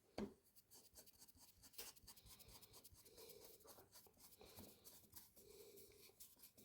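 Faint scraping and small sharp clicks of carburettor parts being worked by hand, as the new needle valve is pressed down into its seat in the carb body. There is a sharper click about a quarter of a second in.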